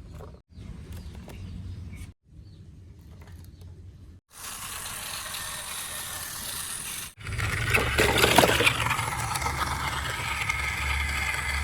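Plastic RC toy vehicles scraping and rattling, in several short clips that cut off abruptly. From about seven seconds in, a louder, steady mechanical running sound with a low hum takes over.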